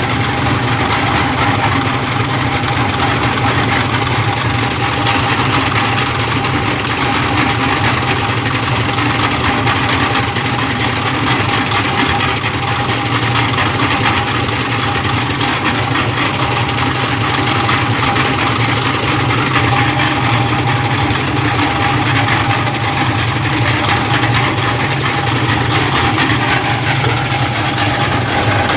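An engine running steadily at an unchanging speed, with a constant hum and a steady high whine over it.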